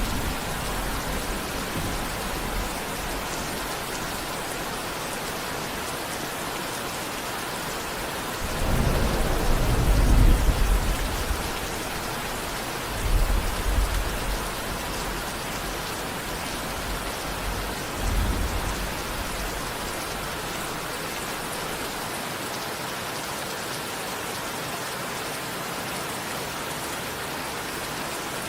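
Steady rain falling, with thunder rumbling low: a long roll of thunder about a third of the way in, then two shorter rumbles a few seconds apart.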